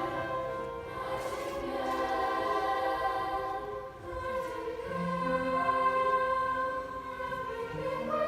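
Youth choir singing unaccompanied in several parts, holding long sustained chords that shift from note to note, with a brief drop in loudness about four seconds in.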